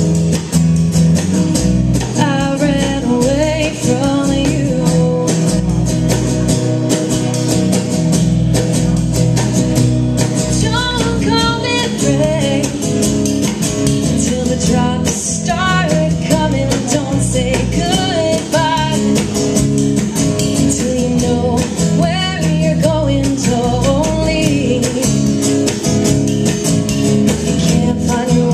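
Band music played live: guitar with a singing voice.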